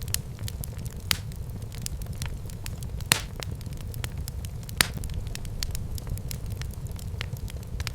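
Wood fire burning in a fireplace: a steady low rumble of flames under a scatter of crackles, with sharper pops about one, three and five seconds in.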